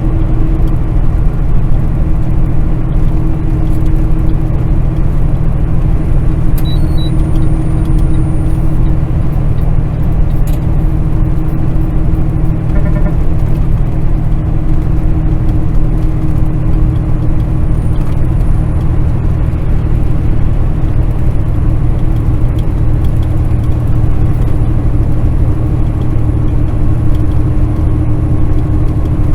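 Kenworth semi-truck running steadily at highway speed, a constant diesel engine drone with road noise and a steady hum.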